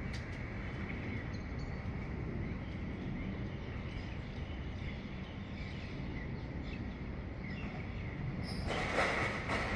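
Birds chirping faintly over a steady low rumble of background noise, with a louder rush of noise lasting about a second near the end.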